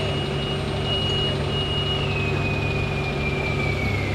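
A heavy engine running steadily, with a high whine that holds and then slowly drops in pitch over the last couple of seconds.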